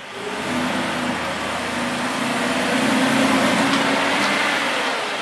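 Aston Martin V8 Vantage's V8 engine running in a parking garage. It comes in sharply, grows louder to a peak about three seconds in, then eases off.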